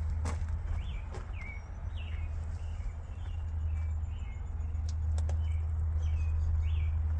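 Mack MP8 13-litre six-cylinder diesel idling with a steady low hum, while birds chirp repeatedly over it and a few sharp clicks sound.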